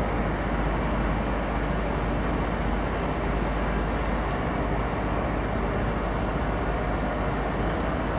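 Heavy diesel engine running steadily under load, with an even, continuous sound.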